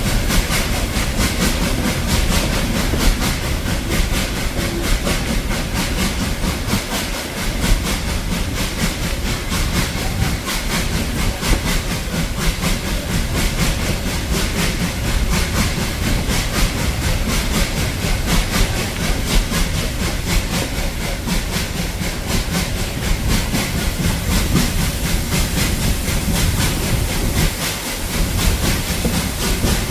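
Heritage train running, a steady loud rush of noise with hiss throughout.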